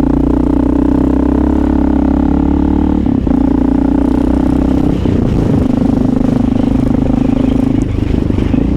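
Honda XR650L single-cylinder four-stroke motorcycle engine running steadily under way, with brief breaks in its note about three seconds in, about five seconds in and near the end.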